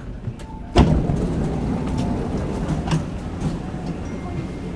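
Inside a MTR CRRC Changchun electric train car: running noise, with a sudden knock about a second in. After the knock the rumble stays louder, with scattered clicks.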